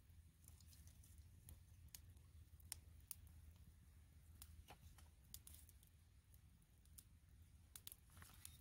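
Faint wood campfire crackling: irregular sharp pops and snaps, a few every second, over a low steady rumble.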